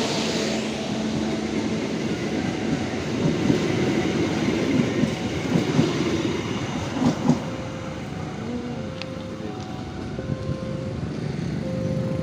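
Pangrango passenger train running past on the Sukabumi–Bogor line, a steady rumble with wheels clattering and knocking on the rail joints. A held horn tone tails off in the first couple of seconds, and short repeated tones sound in the second half.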